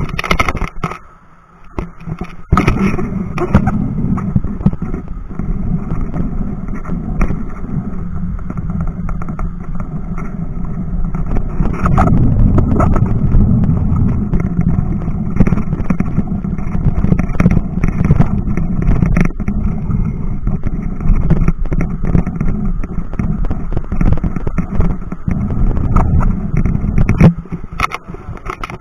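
Wind rushing over the microphone during a bicycle ride, with frequent knocks and rattles from riding over a rough road.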